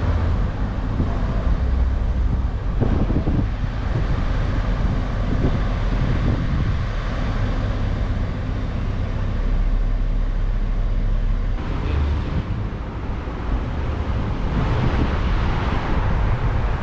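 Wind buffeting the microphone in gusts over a steady rushing noise.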